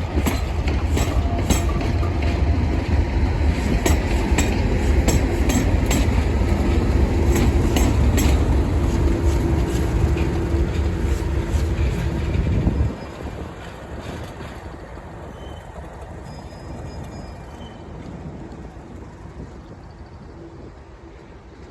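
Class 37 diesel locomotive's English Electric V12 working hard at speed: a loud, heavy engine rumble with the wheels clicking over rail joints. The sound drops suddenly about 13 seconds in to a much quieter train rumble.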